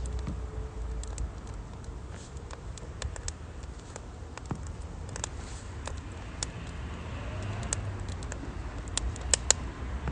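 Firewood crackling and popping in a UNIFLAME Nature Stove Large, with irregular sharp snaps and a pair of louder pops near the end, over a steady low rumble.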